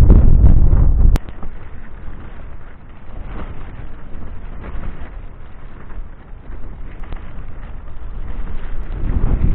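Desert wind gusts buffeting a phone's microphone as a loud low rumble that drops away suddenly about a second in, leaving a softer rush that builds again near the end.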